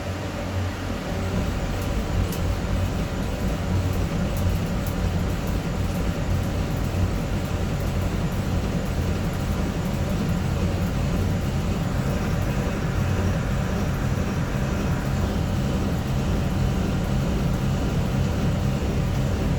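CNC turn-mill lathe running a cut: a steady mechanical hum with a strong low drone, and a few sharp ticks in the first several seconds.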